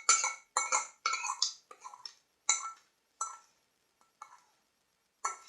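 A teaspoon scraping and clinking against the bowl in short repeated strokes, about two a second, as cake batter is scraped out into the moulds; the strokes grow fainter and sparser after about three seconds.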